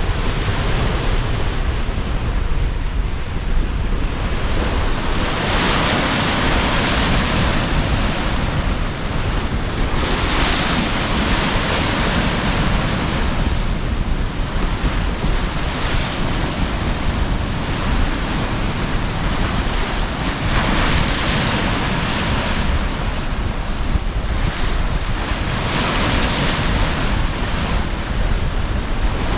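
Sea surf breaking in waves, with a steady low rumble of strong wind beneath, the hiss of each breaking wave swelling every few seconds.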